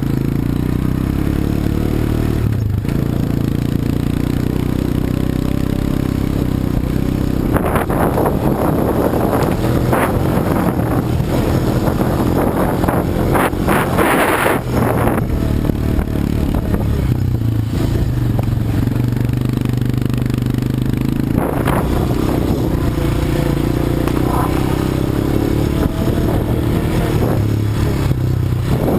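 ATV engine running steadily under way. A stretch of clattering and scraping noise runs from about 8 to 15 seconds in, with another short burst about 21 seconds in.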